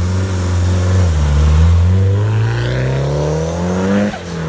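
Tuned 620 bhp Mitsubishi Lancer Evolution VI Tommi Mäkinen Edition's turbocharged 4G63 four-cylinder engine pulling hard under full acceleration. The engine note climbs steadily for about three seconds, then drops sharply near the end.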